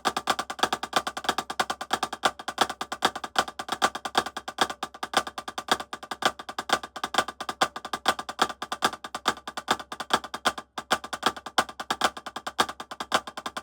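Drumsticks playing a fast, steady flam exercise, many strokes a second, with a brief break about eleven seconds in.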